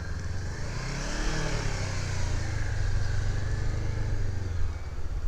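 Motorcycle engine running at low revs during a slow U-turn, its pitch rising and easing back about a second in, then holding steady before it fades slightly near the end.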